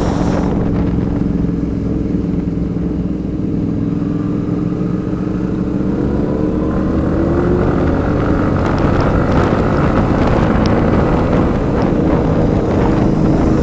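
Motorcycle engine running on the move, its pitch rising as it speeds up about halfway through, then holding steady.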